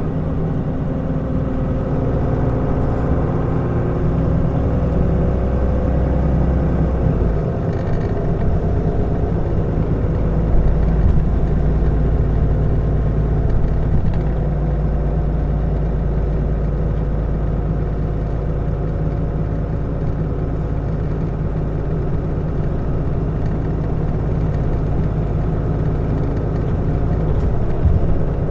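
Mitsubishi Fuso Aerostar city bus's diesel engine running steadily as the bus drives, with the engine note shifting about seven seconds in.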